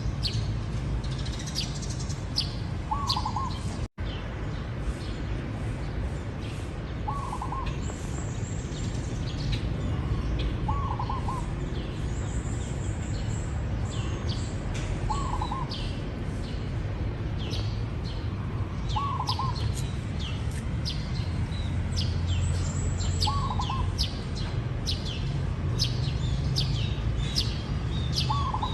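Zebra dove cooing: a short, warbled coo repeated about every four seconds. Other small birds chirp in quick, high notes throughout, over a steady low background rumble.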